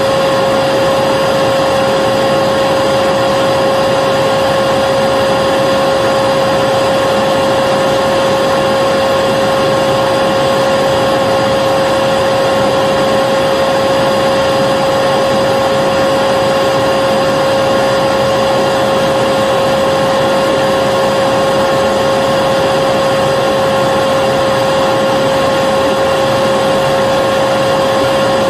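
Vacuum cleaner motor running continuously at a steady speed: a constant whining hum over the rush of air, unchanging throughout.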